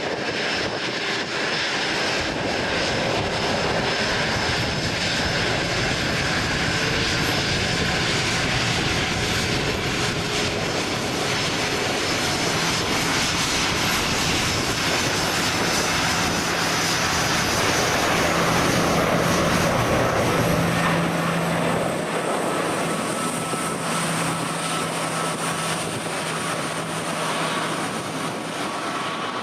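Jet aircraft engines running steadily, a loud rumble with a low hum. A high whine comes in during the second half. Wind buffets the microphone.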